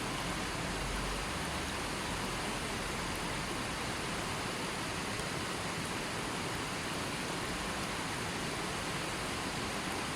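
River water flowing steadily, an even rushing hiss with no change in level.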